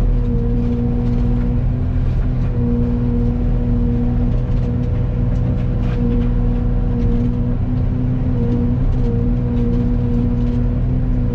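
Excavator running under load with a Fecon forestry mulcher head spinning, a loud steady drone with a held tone that wavers and dips briefly now and then.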